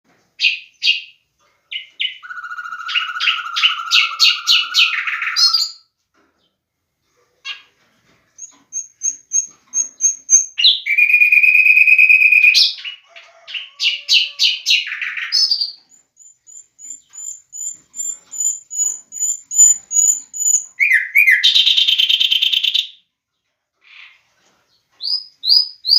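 Pet lovebirds chirping and calling: strings of shrill, rapid chirps and high peeps, broken by a few longer held whistling notes of a second or two.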